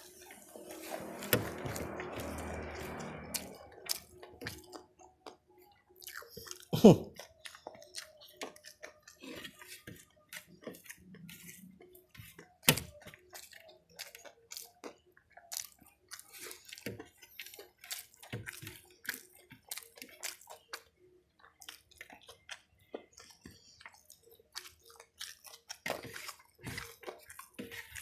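Close-miked chewing of crispy smashed fried chicken (ayam geprek) and rice: a steady run of wet mouth clicks and crunches, denser in the first few seconds. Two sharper knocks stand out, one about seven seconds in and one about thirteen.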